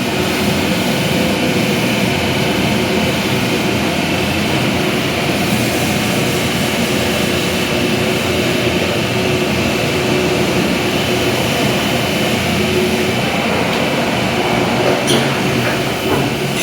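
A heavy motor running steadily, with a couple of short clicks near the end.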